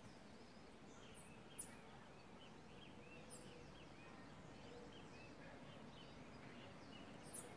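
Near silence: faint outdoor background with scattered distant bird chirps.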